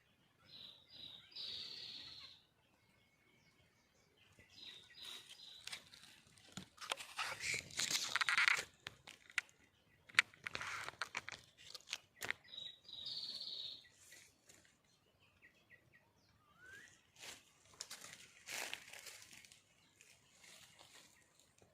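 Female red junglefowl (wild hen) calling to attract a cock: short high calls repeated a few times, along with stretches of scratchy noise, loudest about eight seconds in.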